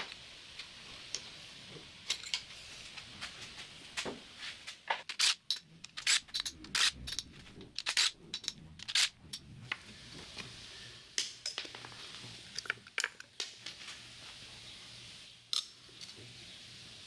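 Irregular metallic clicks, clinks and knocks of tools and parts being handled, densest in the middle of the stretch.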